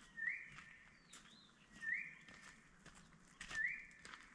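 A bird calling the same short whistled note three times, each swooping up and then levelling off, about a second and a half apart, over faint scattered clicks.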